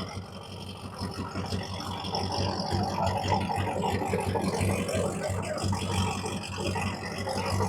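A car engine running with an uneven, pulsing low note.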